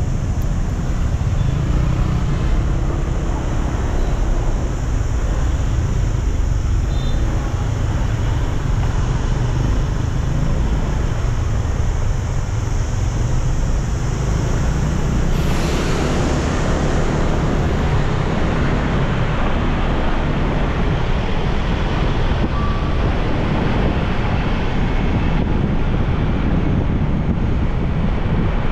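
Steady wind rushing over the microphone along with a motorbike's engine and road noise while riding in traffic. About halfway through there is a brief swell of brighter noise, as from a passing vehicle.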